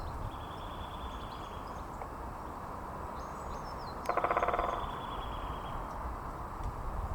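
Great spotted woodpecker drumming: one rapid roll of beak strikes on wood about four seconds in, lasting under a second. Small birds chirp faintly over a steady low background rumble.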